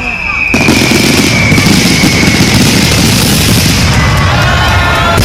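Fireworks display: a dense barrage of rapid bangs and crackling bursts breaking in suddenly about half a second in and going on without pause, with a high whistle slowly falling in pitch over the first couple of seconds.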